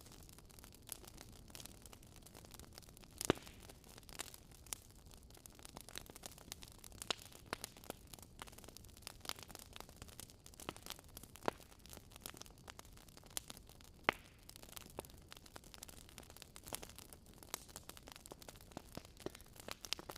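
Fire crackling: a soft steady hiss with irregular pops and snaps, a sharper pop about three seconds in and another about fourteen seconds in.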